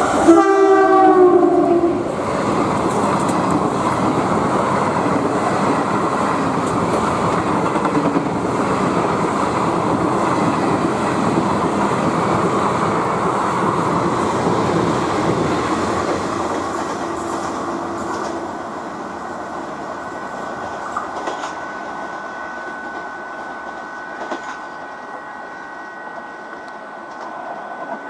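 An ALCO diesel locomotive's horn sounds once for about two seconds. A passenger train of ICF coaches then runs past at speed with steady wheel clatter on the rails, which fades away over the last ten seconds as the train recedes.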